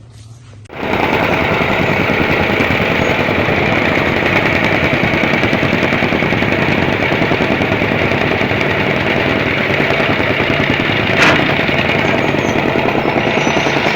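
Portable electric pressure washer (car-wash machine) switching on about a second in and running steadily, its motor and pump giving a loud, rapid rattling pulse. There is a brief sharp click near the end.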